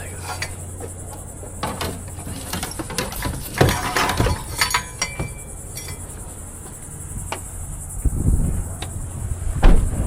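A discarded electric fan being picked up and handled: scattered clinks and knocks, thickest around the middle, and a couple of heavier thumps near the end. Under them runs a steady high-pitched drone and a low hum.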